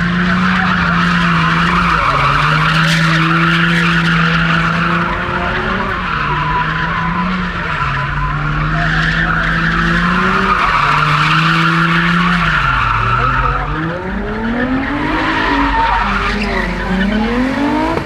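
Car engine held at high revs with tires squealing continuously, as in a burnout or donut; the revs drop briefly about three-quarters of the way through, then the engine is revved up and down rapidly near the end.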